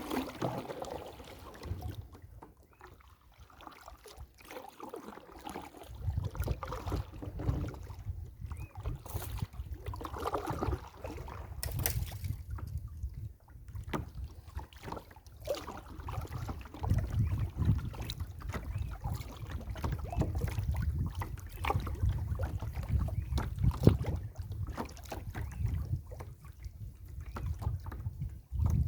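Kayak being paddled on lake water: paddle splashes and water movement, with gusty wind rumbling on the microphone.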